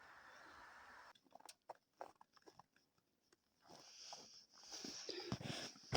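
Woodpecker knocking on a tree: scattered, irregular sharp taps, with a louder thump near the end.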